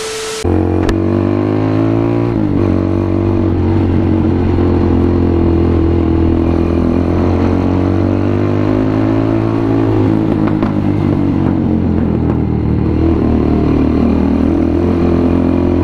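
Motorcycle engine running loud through an aftermarket SC Project slip-on exhaust on a stainless big elbow, its pitch rising and falling slowly. A short hiss is heard at the very start.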